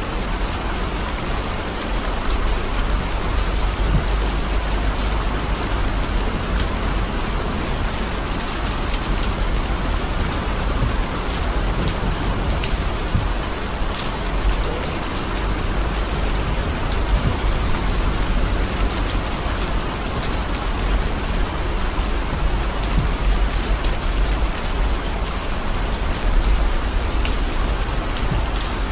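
Torrential rain falling on a car's roof and windshield, heard from inside the moving car: a steady hiss with many sharp drop ticks over a low rumble.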